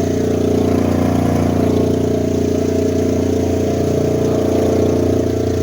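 Engine of the vehicle being ridden on, running steadily at a constant pitch.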